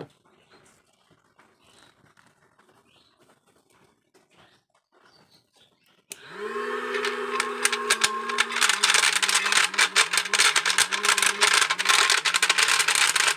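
Small homemade DC-motor vacuum cleaner switched on about six seconds in: a whine that rises quickly to a steady pitch, with a dense crackle of clicks and rattles over it. Before that, only faint scattered sounds.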